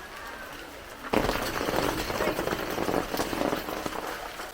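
Heavy rain drumming on a hard surface close by, starting suddenly about a second in and easing off near the end.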